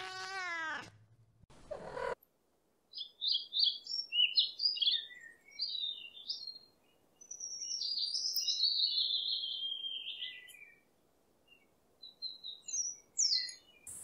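A cat meows once at the start, falling in pitch. A small songbird then chirps and twitters in quick high phrases, with a longer descending warble in the middle.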